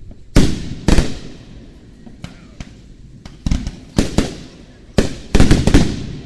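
Fireworks shells bursting in loud, sharp bangs with echoing tails: two close together near the start, a few more after a pause, then a quick volley of several bangs near the end.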